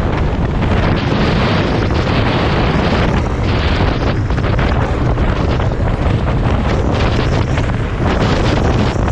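Strong wind buffeting the microphone: a loud, continuous rumbling roar that flutters without pause.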